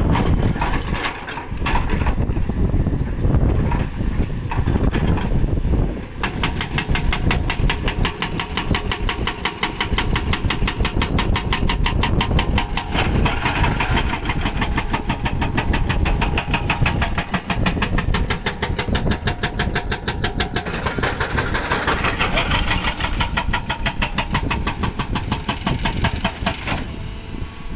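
Heavy diesel machinery running: the engines of a backhoe loader and a tractor working close by. From about six seconds in a fast, even knocking beat runs through the sound.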